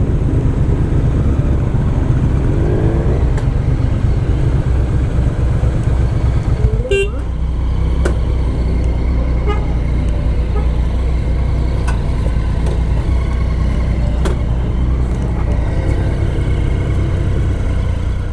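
Motorcycle engine running under way, a steady low rumble, with a short horn toot about seven seconds in.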